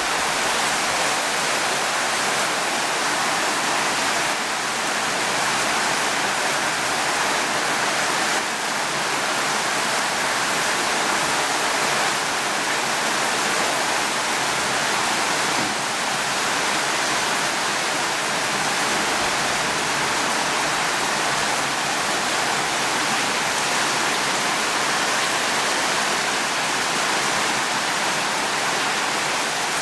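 Steady rainfall, an even hiss that holds at one level with no thunder.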